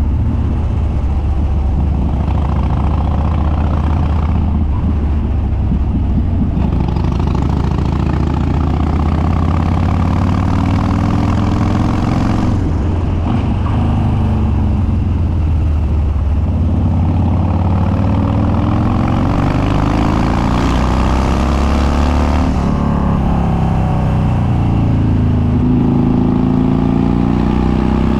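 2013 Harley-Davidson Dyna Street Bob's Twin Cam V-twin, with Andrews 48H cams and unbaffled upswept dual exhaust, running under way. The revs rise, drop back and rise again several times, as through gear changes or throttle changes on a climbing road.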